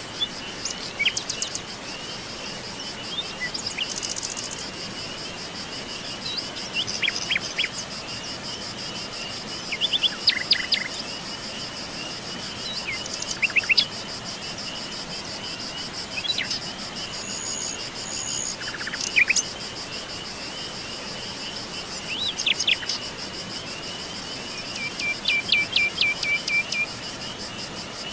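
Songbirds chirping and trilling in short bursts every few seconds over a continuous high insect trill, with a steady background hiss.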